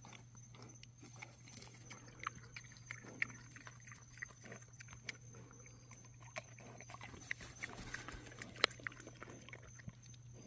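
A pet animal moving and making small noises at play: scattered short clicks and soft sounds, fairly quiet.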